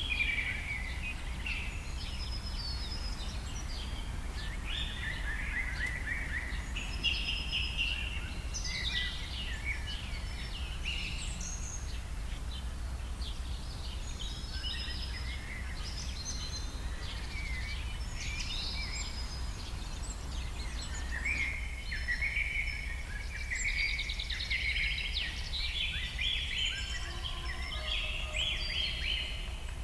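Several small birds chirping and singing in overlapping short trills, over a steady low background rumble.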